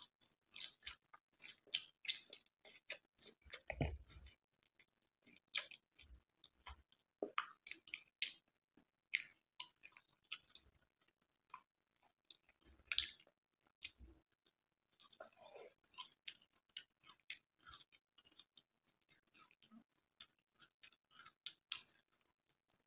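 Close-miked mouth sounds of a person eating syrup-soaked Indian sweets: wet chewing with irregular sharp clicks and lip smacks. Near the end comes a bite into an imarti.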